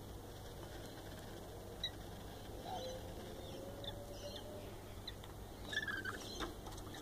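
Faint, scattered bird chirps and a few soft clicks over a low steady hum, with a small cluster of louder chirps near the end.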